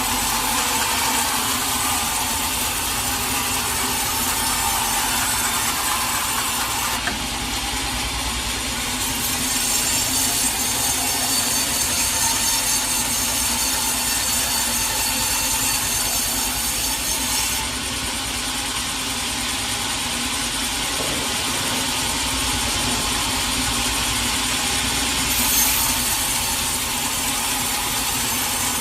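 Sawmill saw cutting teak wood, a steady dense rasp over a constant motor hum; the sound changes abruptly a few times.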